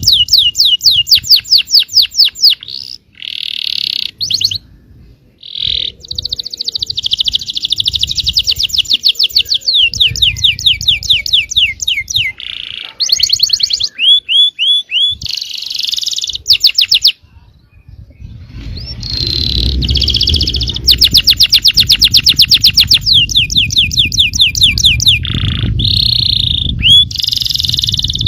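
Yellow canary singing: long runs of fast repeated notes and rolled trills, broken by short pauses.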